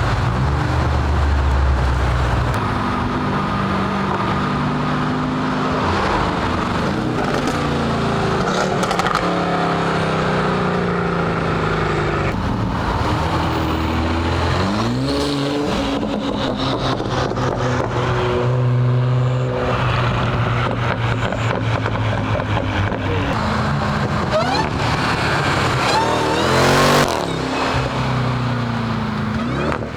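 Car engines running and revving as cars pull out and drive past, with the engine pitch sweeping up and down about halfway through and again near the end.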